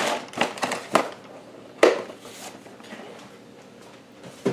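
Cereal box and its plastic liner being handled: a few soft crinkles and taps, then a sharp knock about two seconds in and another near the end as things are set down on the counter.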